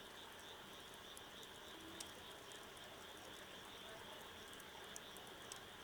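Faint wood fire crackling, with a few sharp pops about two seconds in and twice near the end, over a steady high chirring of insects.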